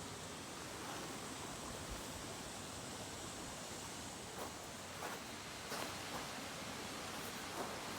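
Steady rushing of a mountain stream, with a few faint rustles or light knocks in the second half.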